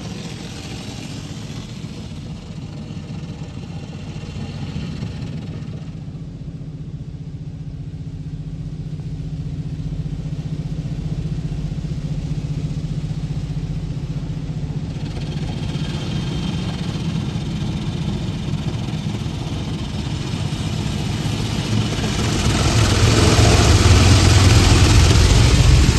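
A steady low mechanical hum of a running engine or motor. About 22 seconds in, a louder rushing hiss joins it.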